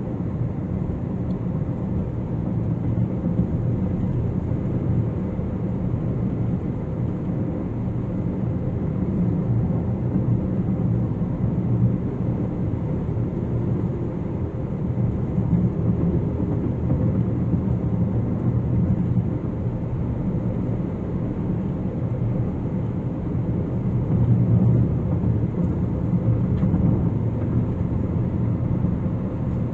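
Steady road and engine noise inside a moving car cruising on a concrete highway, a low, even rumble of tyres on concrete and the engine.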